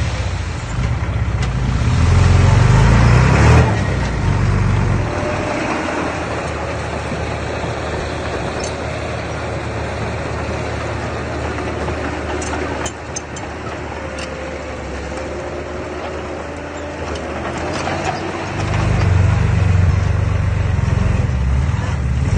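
Diesel engine of an earthmoving machine working, louder for the first few seconds and again near the end, steadier and quieter in between, with a faint whine in the middle stretch.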